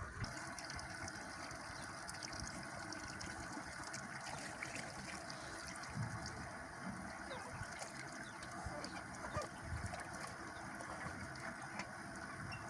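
Steady rush of flowing water, with faint scattered ticks.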